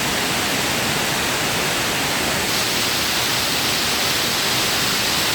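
Steady rushing of a 40-foot indoor waterfall, an even hiss of falling water; it grows a little brighter about two and a half seconds in.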